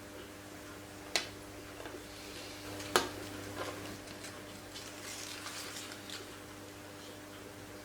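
Light handling noise: two sharp clicks, about a second and three seconds in, the second the louder, then faint scraping, over a steady low hum.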